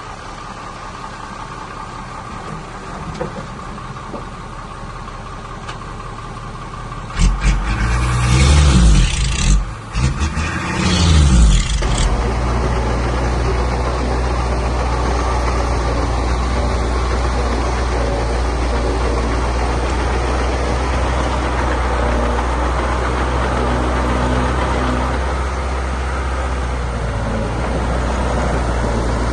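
Heavy diesel engine running. It revs hard with rising and falling pitch for several seconds, about seven seconds in, then settles into a steady, louder running.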